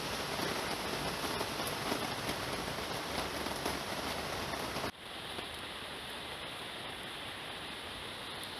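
Steady rushing of water. About five seconds in it cuts abruptly to a quieter, duller rush.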